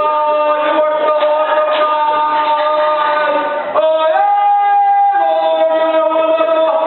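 Congregation singing long held notes, men's and women's voices together, with the pitch stepping up a little under four seconds in and back down about a second later.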